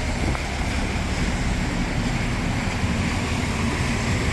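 Steady hiss of rain with traffic on a wet city street, tyres swishing on the wet road and a low hum of engines under it.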